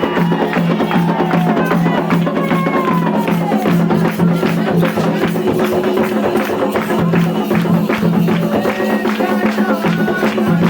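Afro-Brazilian ritual music for Xangô: drums and hand percussion play a fast, steady rhythm while voices sing over it.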